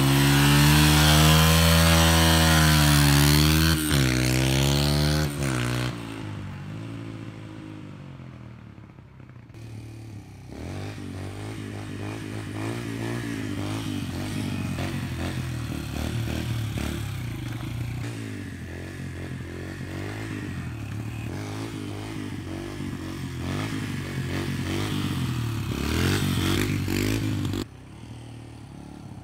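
Pit bike engine revving loud and close, its pitch rising and falling with the throttle, cutting off suddenly about six seconds in. After a short lull a motorbike engine runs again, quieter, speeding up and slowing repeatedly, until it drops away near the end.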